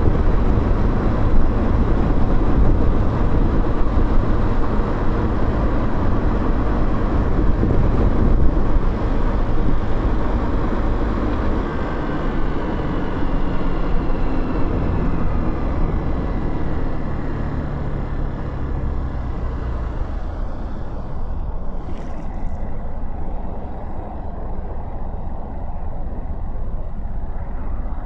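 Motorcycle riding in traffic: engine and wind rush. The engine note falls in pitch in the middle, and the sound grows quieter in the second half as the bike eases off.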